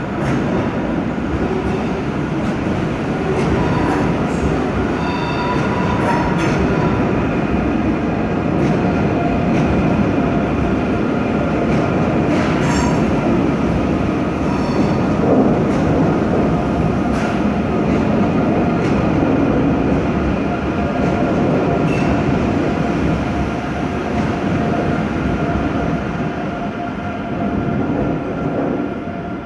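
Train running on the rails: a loud, steady rumble of wheels on track with brief high wheel squeals and scattered clacks over the rail joints, easing off near the end.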